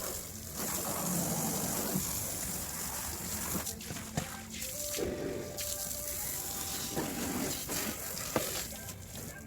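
Water running and splashing steadily while a car is washed, in an even hiss.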